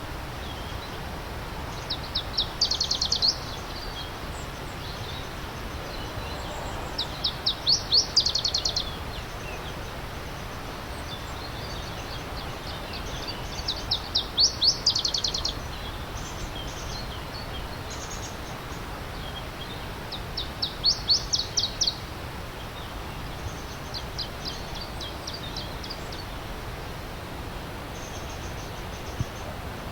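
A songbird repeating the same short song, a quick run of high notes about a second long, roughly every six seconds, over a steady rush of creek water.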